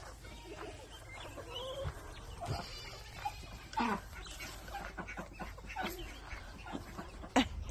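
Chickens clucking in short, scattered calls, with a sharp knock near the end.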